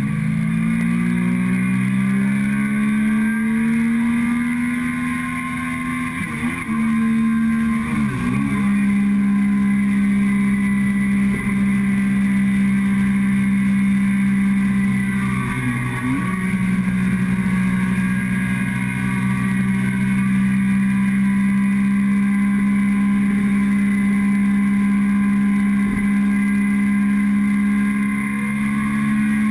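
Motorcycle engine heard from the fuel tank while riding: it rises in pitch over the first few seconds, dips briefly a couple of times, then runs at a steady pitch for the rest of the stretch.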